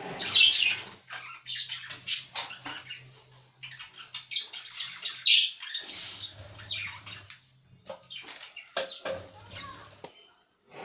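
Budgerigars chirping and chattering in short, irregular bursts of high notes, with scattered knocks and rustles.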